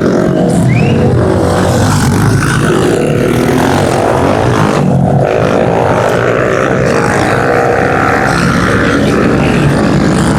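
Several pit bike engines racing, revving up and down as the riders work around the track.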